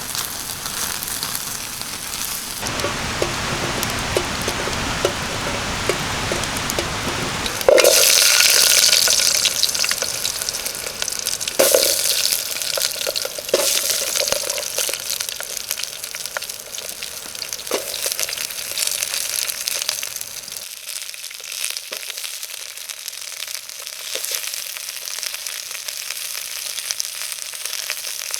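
Food sizzling and frying in a pan over a campfire. About eight seconds in, the sizzle jumps suddenly louder and brighter, then eases off over several seconds. A few short knocks of a utensil against the pan are scattered through it.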